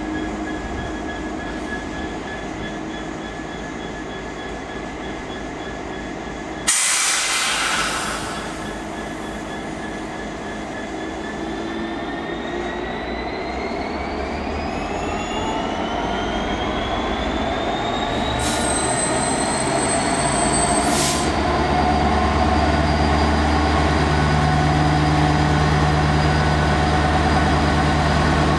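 EMD Class 66 diesel-electric locomotive, with its two-stroke V12, pulling away: the engine runs steadily, a short loud blast of air hiss comes about seven seconds in, and then a whine rises steadily in pitch for several seconds as the engine is throttled up. A deep engine rumble builds and grows louder in the last third.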